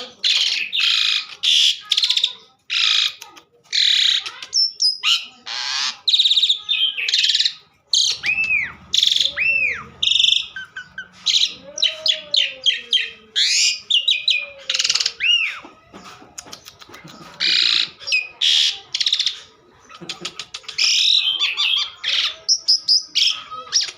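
Asian pied starling (jalak suren) singing at length: a rapid, unbroken string of harsh chattering phrases mixed with clear whistled notes that rise and fall.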